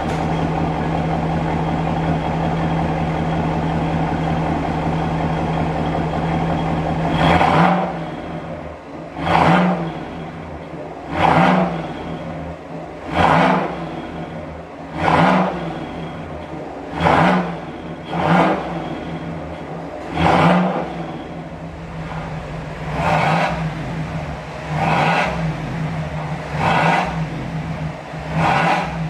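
Fifth-generation Cadillac Escalade V8 through a valved aftermarket exhaust: it idles steadily, then from about seven seconds in is blipped about a dozen times, one short rev roughly every two seconds, dropping back between revs.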